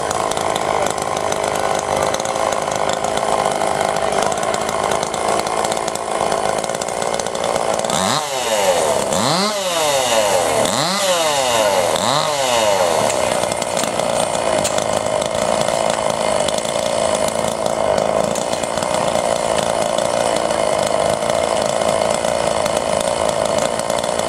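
Small two-stroke chainsaw engines running at high revs in a timed log-cutting heat. About a third of the way in, the engine note swings up and down three or four times, then settles back to a steady high pitch.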